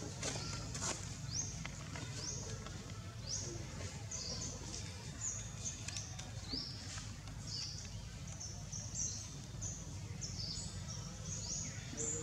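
Small birds chirping: many short, high, rising chirps repeating every half second or so, over a steady low background rumble.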